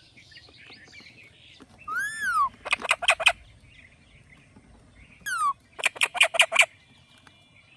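Indian ringneck parrot calling in two bouts. Each bout opens with a whistled note, rising then falling the first time and falling the second, followed by a quick run of four or five sharp chirps.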